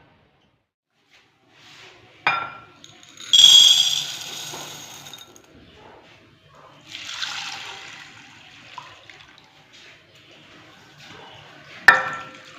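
Kitchen sounds: water running or splashing in two short bursts, with sharp clinks of dishes, one a couple of seconds in and a louder, ringing one near the end.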